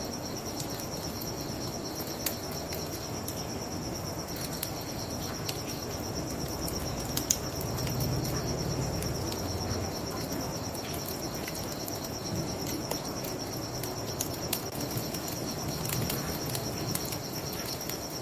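Crickets trilling steadily in a high, pulsing chorus, over the scattered crackles and pops of a wood fire and a low, even rush of river water.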